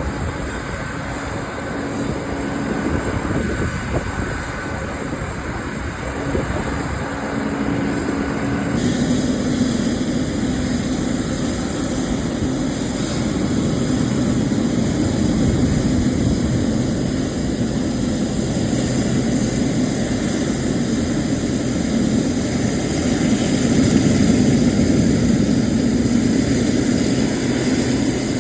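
Boeing 777 jet engines on takeoff: a steady engine noise with a low hum underneath. It changes abruptly about nine seconds in, then grows gradually louder.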